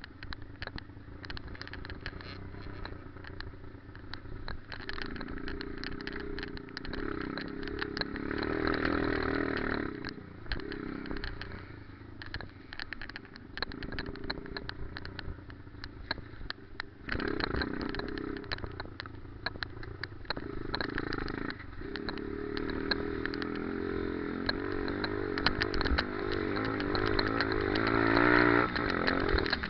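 Pit bike's single-cylinder engine heard on board, revving up and easing off again and again as it is ridden, with a hard rev near the end. Frequent short knocks and rattles run through it.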